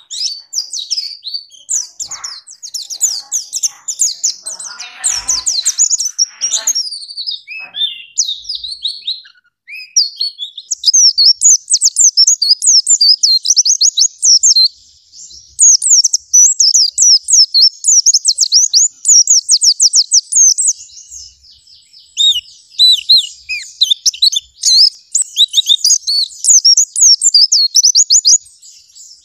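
Songbird singing a long, fast, high-pitched song of rapid sweeping notes, with rougher, lower calls mixed in during the first few seconds and a short break near the middle.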